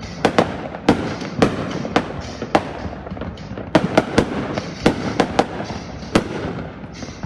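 Aerial fireworks going off in a display: about a dozen sharp bangs at irregular intervals, some in quick succession, over a continuous rumble and crackle of further bursts.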